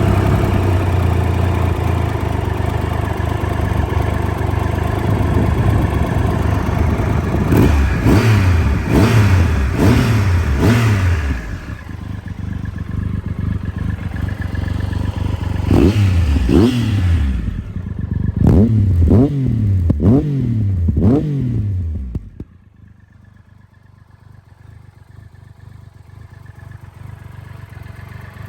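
The water-cooled three-cylinder engine of a Triumph Tiger Explorer 1215, breathing through an aftermarket Wrex carbon-can exhaust, idles just after starting. It is then blipped in two runs of quick revs, a handful each, with idle in between. The engine is switched off about two-thirds of the way through, leaving only faint background noise.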